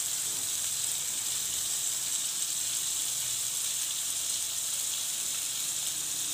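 Chicken pieces shallow-frying in butter and oil in a pan: a steady sizzle.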